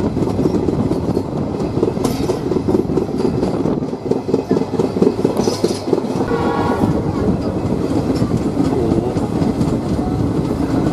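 Passenger train running along the track, heard from on board: a steady rumble with the clickety-clack of wheels over rail joints. A short tone sounds about six seconds in.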